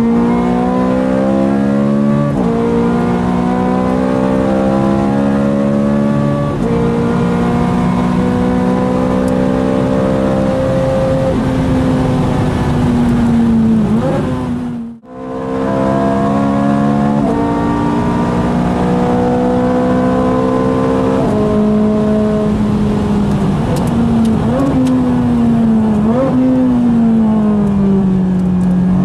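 Ferrari 430 Scuderia's V8 engine heard from inside the cabin while accelerating hard through the gears: the pitch climbs within each gear and drops sharply at each upshift. The sound cuts out briefly midway. Near the end come two sharp throttle blips with the revs falling away after each, typical of downshifts.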